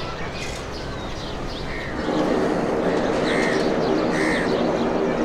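Birds chirping and calling over a steady background noise, which grows louder and denser about two seconds in.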